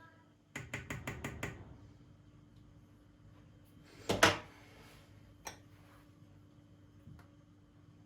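Objects being handled: a quick run of about six light clicks, then a louder knock or clatter about four seconds in, and one more click later, over a faint steady hum.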